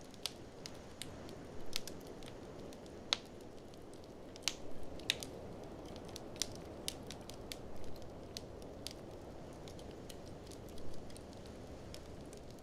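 Wood fire in a fireplace crackling, with irregular sharp pops and snaps, the loudest a little after 3 seconds and about 4.5 to 5 seconds in, over a steady low rush of blizzard wind.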